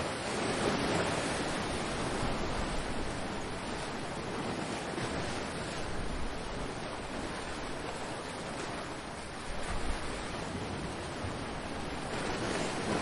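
Ocean surf: a continuous wash of breaking waves, swelling a little twice.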